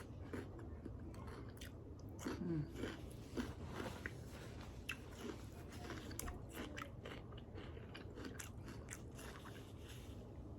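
A person chewing cold raw celery dipped in ranch, with a steady run of irregular, crisp crunches.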